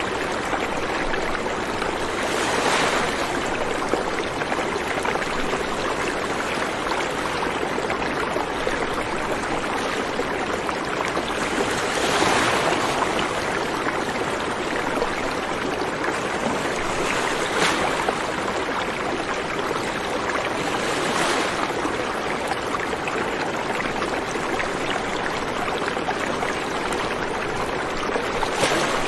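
River water flowing steadily over rocks, a constant rushing with brief louder splashing swells every few seconds.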